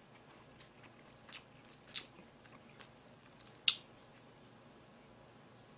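A person eating close to the microphone: quiet chewing with a few short, sharp clicks, the loudest about two-thirds of the way through.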